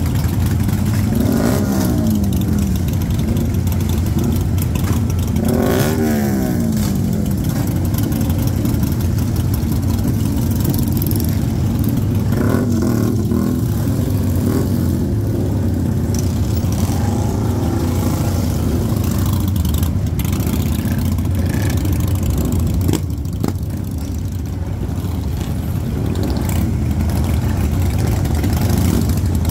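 Motorcycle engines running with a steady low drone, with revs that glide up and down in pitch about a second in and again around six seconds in.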